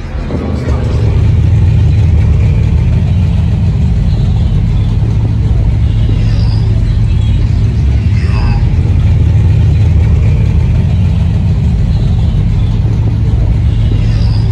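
Loud, steady low car rumble that builds over the first second and then holds level.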